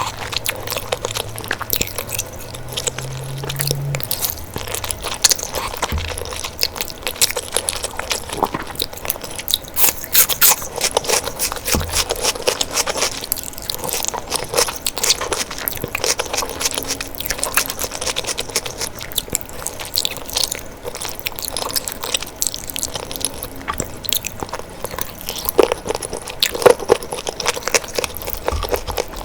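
Close-miked eating: a person chewing and biting food, with continuous crunching and crackling and an occasional louder bite.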